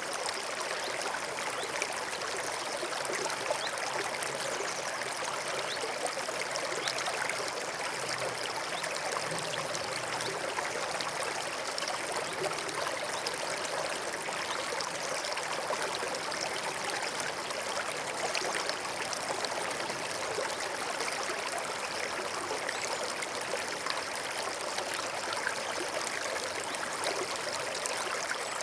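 A small stream running and trickling over stones, a steady babble of water with small splashes.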